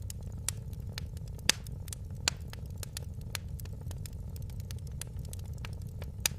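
Fire in a fireplace crackling: irregular sharp pops and snaps over a steady low rumble. The loudest pop comes about a second and a half in, with another just before the end.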